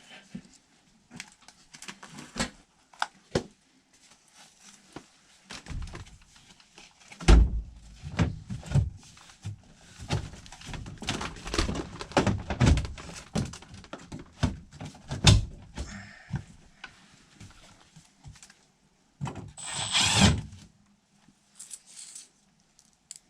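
Irregular knocks, clicks and thunks of hand work with tools on HVAC equipment, with a loud thunk about seven seconds in and a dense run of clatter after it. A short burst of noise comes near the end.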